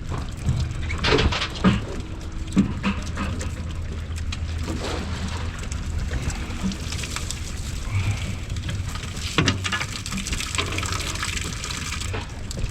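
Water splashing and trickling, with several short splashes, over a steady low hum.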